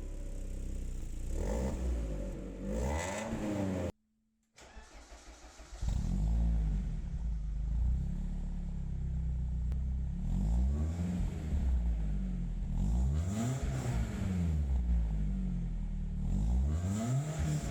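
BMW E36 four-cylinder engine revved repeatedly through a newly fitted exhaust with a single rear muffler, its pitch rising and falling with each blip. About four seconds in the sound cuts out briefly, then the engine runs and revs again.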